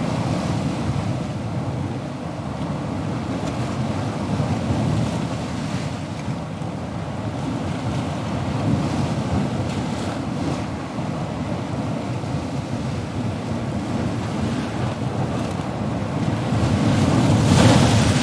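Ocean surf: a steady low rumble of waves, with one wave breaking and washing in as a louder hiss near the end.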